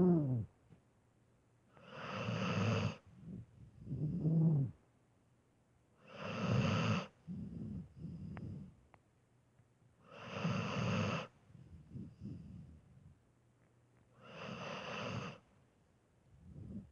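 A sleeping dog snoring, with a loud, raspy snore about every four seconds and softer, wheezy breaths between them.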